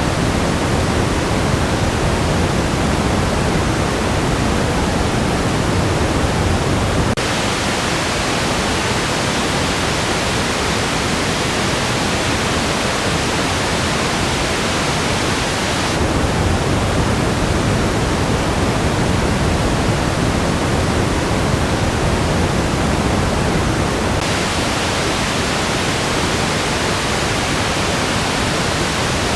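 Band-limited test noise played for an A/B comparison: a steady hiss that switches abruptly three times, at about 7, 16 and 24 seconds, between a darker, bass-heavier pink noise and a brighter noise with more treble and less bass.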